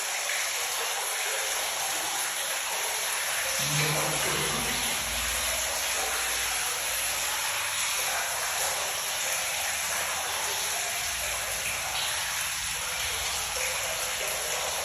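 Rainwater from the roof spouting pouring into a cistern filled almost to the top, a steady rushing splash of water.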